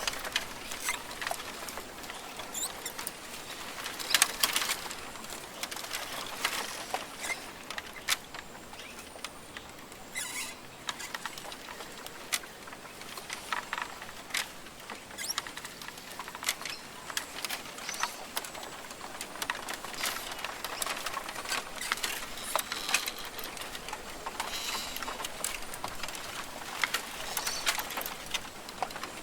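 Rainforest ambience: an irregular patter of small clicks and ticks over a soft, steady hiss.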